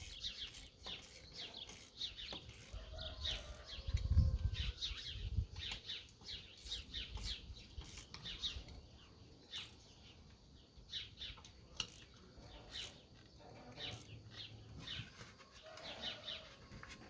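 Small birds chirping in short, irregular calls, with a couple of dull low thumps about four and five and a half seconds in.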